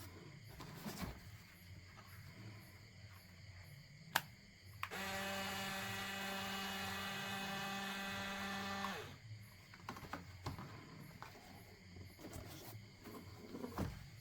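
Small electric motor switched on with a click and running with a steady buzzing hum for about four seconds, then winding down as it cuts off.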